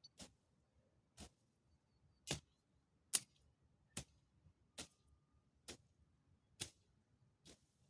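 A series of short, sharp clicks, about one a second, ten in all.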